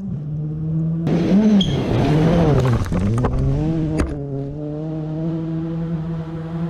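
Historic rally car engines: one runs steadily while, about a second in, a louder engine revs, its pitch rising and falling for about three seconds, then settles back to the steady running.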